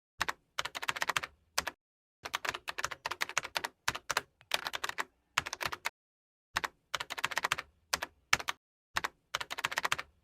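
Bursts of rapid keyboard-typing clicks, a dozen or so short runs separated by dead silence.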